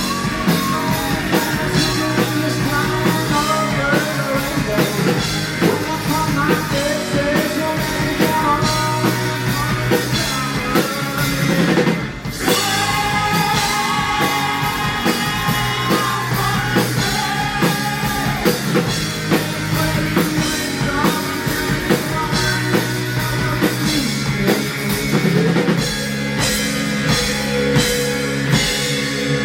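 Live rock band playing with a singer, drum kit and guitar at full volume; the music breaks off for an instant about twelve seconds in.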